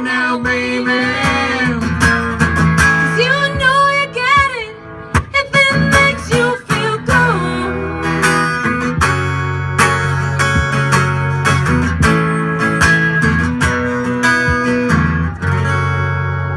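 Live band playing a song, with guitar strumming and a singer's wavering held notes.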